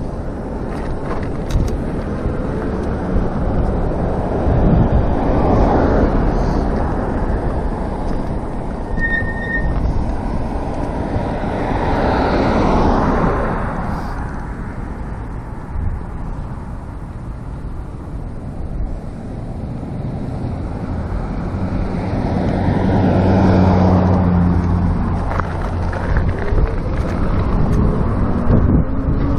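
Wind and road noise on a moving electric bike, with motor traffic swelling past three times; a steady low engine hum joins the third pass.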